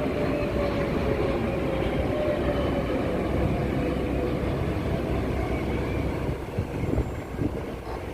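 Jet aircraft flying past with a steady rumble and a whine that slowly falls in pitch as it goes away. The sound eases off near the end.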